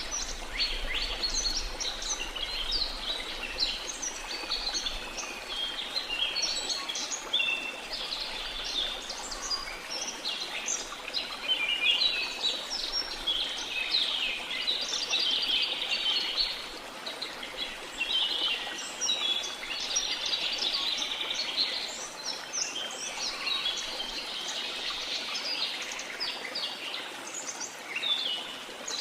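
Rainforest ambience: a dense chorus of many birds chirping and calling continuously, over a steady background hiss of water.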